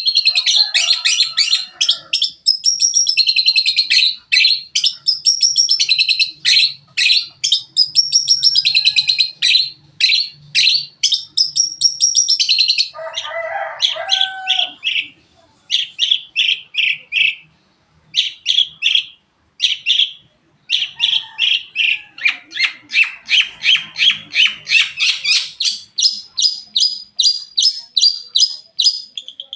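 Long-tailed shrike (cendet) singing a fast, varied song of rapid repeated high notes, with a brief lower-pitched phrase about halfway through. The song is laced with mimicked calls of other birds.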